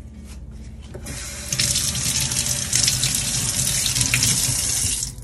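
Kitchen faucet running into a stainless steel sink, the stream splashing over a gloved hand being rinsed. The water comes on about a second in, gets louder, and is shut off sharply at the end.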